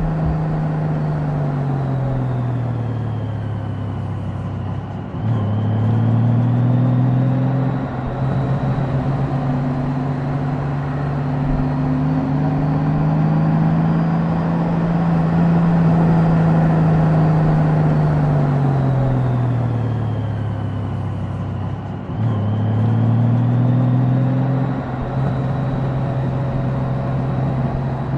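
Honda Goldwing DCT's flat-six engine under way, its note sinking as the bike slows and climbing again as it picks up speed, twice over, with road and wind noise underneath.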